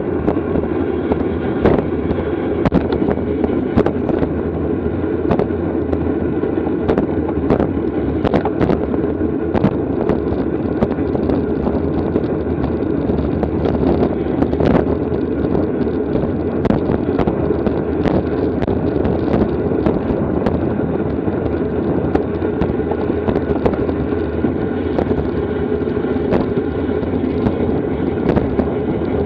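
Wind rushing over the microphone while riding in a bicycle race: a steady rush with scattered clicks and knocks throughout.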